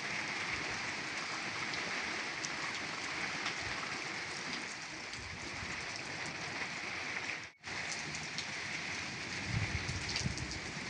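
Steady torrential rain falling, a continuous even hiss with scattered drop sounds. It cuts out for a split second about two-thirds of the way through, and a few low knocks come near the end.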